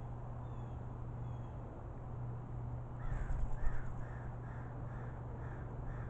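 A bird calling a series of about six short calls, roughly two a second, starting about halfway in, with a brief low rumble as the calls begin and a steady low hum throughout.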